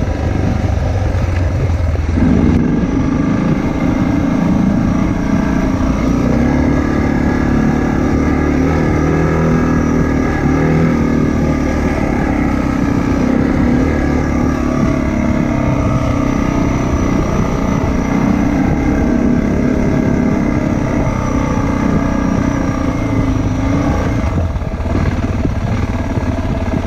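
Motorcycle engine running steadily while riding. Its note rises about two seconds in and falls back near the end.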